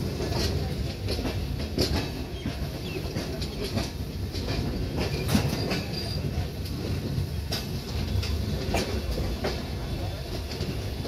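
Indian Railways passenger coach running along the track, heard from aboard: a steady low rumble of wheels on rail with irregular sharp clicks and clacks as the wheels pass over rail joints and points.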